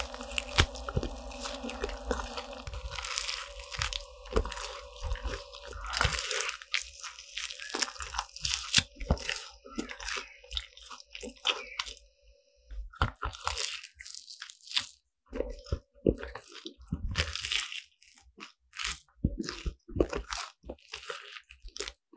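Crisp croffles, croissant dough pressed in a waffle iron, being bitten and chewed close to the microphone: many irregular crunches.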